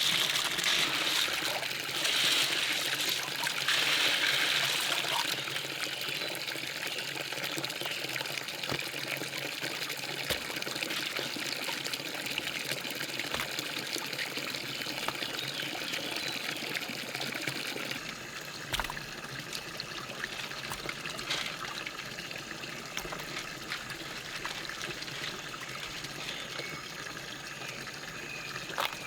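Water trickling and pouring, in louder surges during the first few seconds and then steadier; the sound changes about eighteen seconds in.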